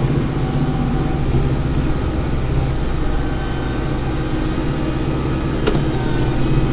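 Kubota tractor's diesel engine running steadily, heard from inside the cab, with one short click near the end.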